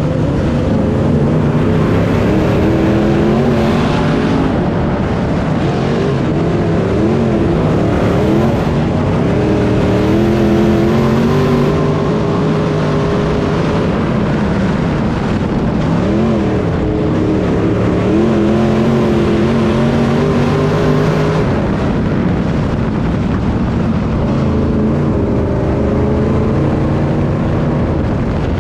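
Race car engine running hard at racing speed, its pitch dropping and climbing again several times as the throttle is lifted and reapplied.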